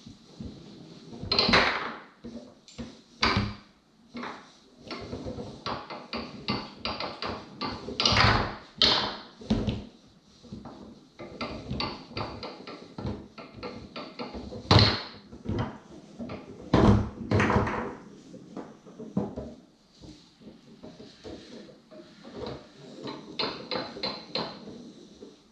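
Foosball being played on a Tornado table: the ball knocking against the men and the table walls, with several loud sharp cracks of shots and rods, and runs of quick light taps as the ball is worked.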